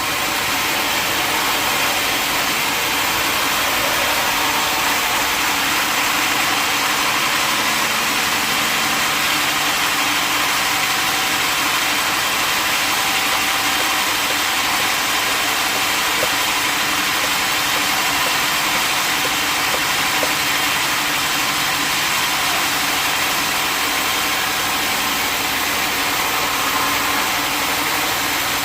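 Sawmill machinery running steadily, a continuous even engine-like drone with no change in pitch or level.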